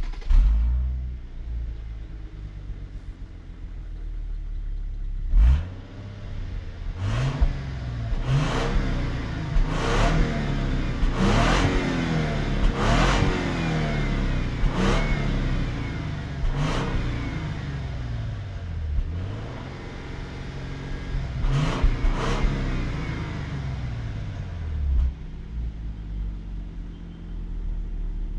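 3.5-litre twin-turbo V6 of a Lexus LS 500 F Sport under full-throttle acceleration, pulling hard after launch about five seconds in. The 10-speed automatic snaps through a run of upshifts about one and a half seconds apart. The engine then eases off, with a short burst near the end of the run, and settles to a steady low idle.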